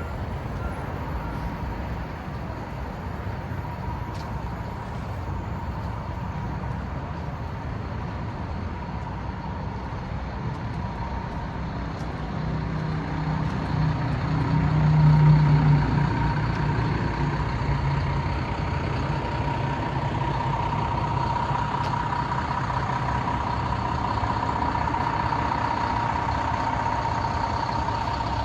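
Cummins 6.7-litre turbo diesel of a Mack MD medium-duty truck running, with a steady whine over the engine rumble. The sound swells to a peak about fifteen seconds in, then settles slightly louder than before, the whine growing stronger.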